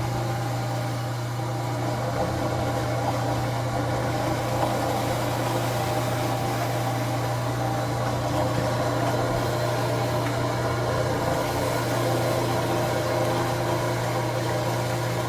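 Electric grinder milling soybeans for tofu, its motor running with a steady hum.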